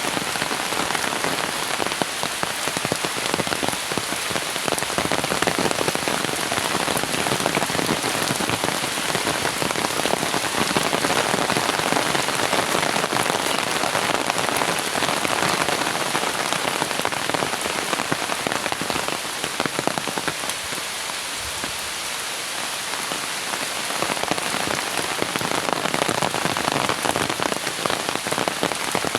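Heavy rain pouring down and splashing on surfaces: a dense, steady patter of countless drops, a little softer for a few seconds about three-quarters of the way in.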